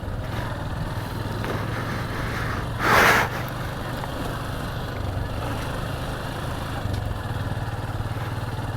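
Motorcycle engine running steadily at low revs, with a short loud rush of noise about three seconds in.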